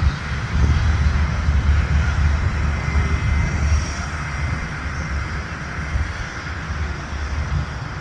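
Jet airliner engines running steadily: a deep rumble under a hiss, with a faint whine.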